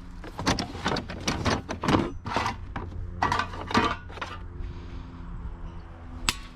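Metal cookware clattering and clinking as it is handled, a rapid run of knocks over the first four seconds and one sharp click near the end, over a steady low hum.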